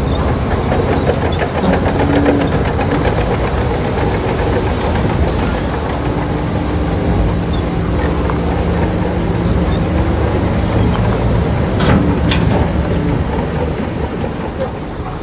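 Heavy diesel earthmoving machinery running steadily, with a fast, dense clatter over the engine. Two sharp knocks come about twelve seconds in.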